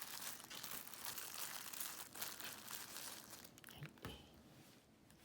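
Crinkling and rustling of the plastic wrapping of Shingen mochi being handled, a dense crackle that dies away about three and a half seconds in.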